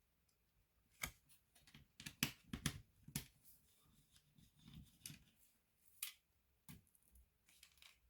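Scattered small clicks and taps of laptop parts being handled during disassembly, starting about a second in, with a burst of several close together soon after and a few more later.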